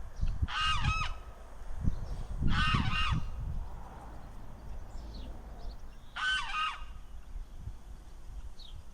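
Gulls calling: three bouts of quick, repeated pitched notes, each lasting about half a second, near the start, about two and a half seconds in, and about six seconds in.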